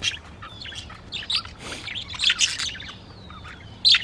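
A flock of budgies chattering: rapid chirps and squawks, with a louder burst about two seconds in and a thin falling whistle near the end.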